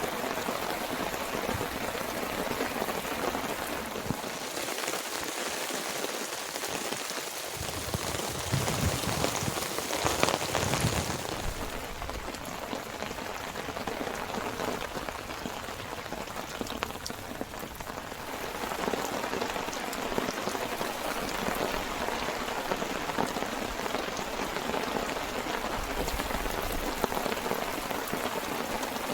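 Steady rain falling, with a heavier spell about a third of the way through.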